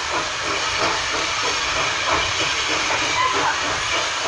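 Steam-hauled train heard from onboard a carriage while running: a steady hiss with the carriage's running noise underneath.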